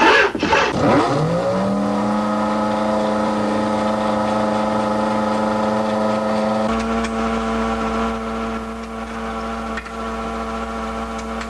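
A machine's motor spinning up, its pitch rising over about a second and then holding a steady whine.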